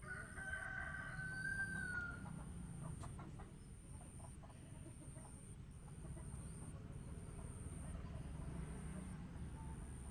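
A rooster crowing once, one long call of about two seconds near the start, followed by a few soft clucks.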